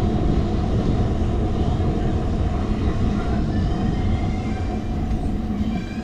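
Wind rumble on the microphone and tyre and road noise from a bicycle in motion, picked up by a handlebar-mounted action camera, with a steady hum underneath.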